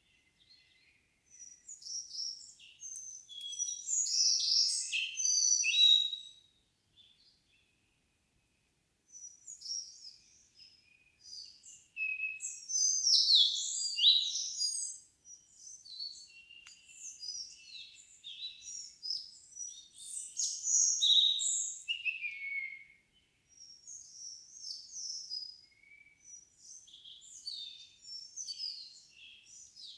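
Songbirds singing in a forest in the evening: fast, high, varied runs of notes, in phrases of several seconds broken by short pauses.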